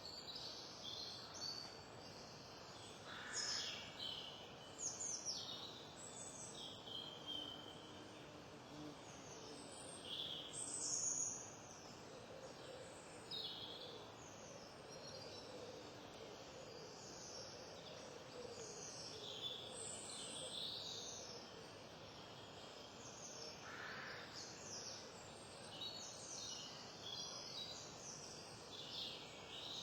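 Wild birds chirping and calling, many short high notes, often falling in pitch, over a faint steady background hiss.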